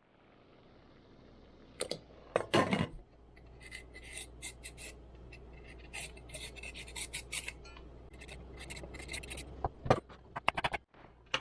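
Vegetable prep in a kitchen: a knife scraping and clicking against a cutting board, with a few knocks near the start and the end, over a low steady hum.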